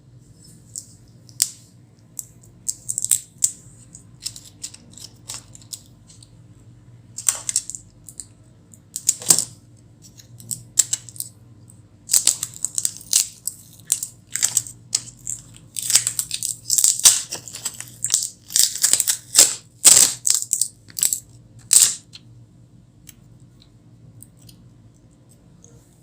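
Dell Latitude E5440 laptop being taken apart by hand: irregular small clicks and scrapes of tools and fingers on its plastic and metal parts, coming thick and fast about halfway through and stopping a few seconds before the end. A faint steady low hum runs underneath.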